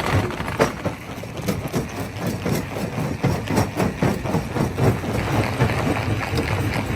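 Rock crusher machine running, with a heavy engine drone under a rapid, irregular clatter of knocks and cracks as rocks are broken.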